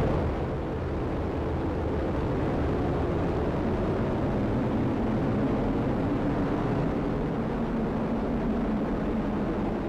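Atlas V rocket's engines at liftoff: its RD-180 first-stage engine and solid rocket boosters make a steady, loud, low rumble as the rocket climbs.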